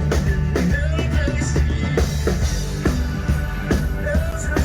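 A band playing a Christmas song live over loudspeakers, with a singer's voice and a steady drum-kit beat.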